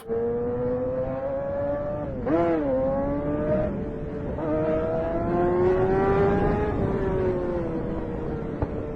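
Motorcycle engine running under way, with a quick dip and sharp rev about two seconds in, then revs climbing steadily and easing off again as the rider accelerates.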